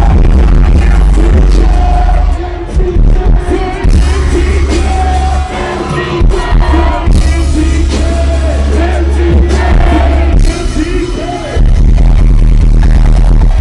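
Loud live hip-hop music over a PA: a bass-heavy backing track with vocals, the bass dropping out briefly a few times.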